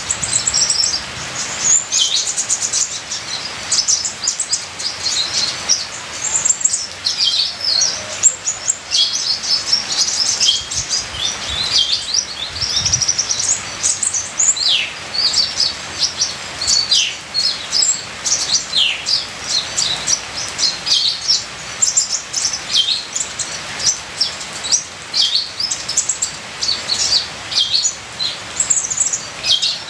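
Purple-throated sunbird ('kolibri ninja') singing without a break: rapid high chirps and quick falling whistles, over a steady hiss of trickling water.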